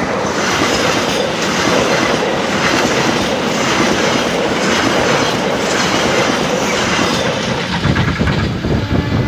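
Passenger train coaches rushing past at speed, their wheels clacking repeatedly over the rail joints. The rush thins out near the end as the last coach passes and draws away.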